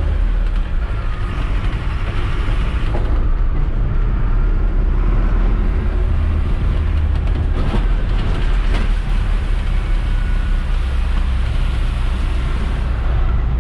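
Mercedes-Benz Atego dump truck's diesel engine pulling the emptied truck away, a steady low drone, with two short knocks about eight and nine seconds in.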